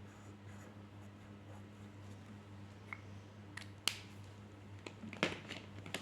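Pen or marker drawing on paper: short scratchy strokes and taps, mostly in the second half, over a steady low electrical hum.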